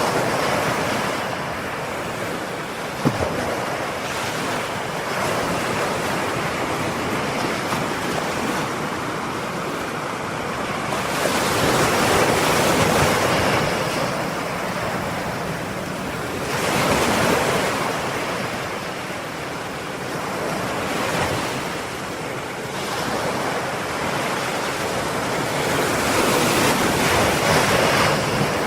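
Ocean waves breaking and washing on the shore: a continuous surf hiss that swells and eases every few seconds, with the biggest swells about halfway through and near the end. One short sharp click about three seconds in.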